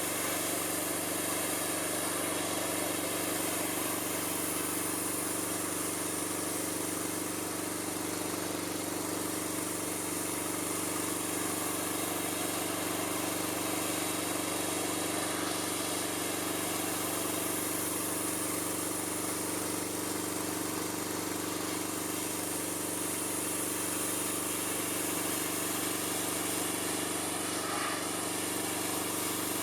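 Gas-engine pressure washer running steadily at a constant, unchanging pitch, with a hiss over the engine note.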